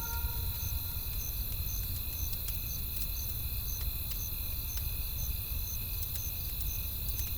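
Campfire crackling with scattered sharp pops over a low steady rumble, while crickets chirp evenly about twice a second.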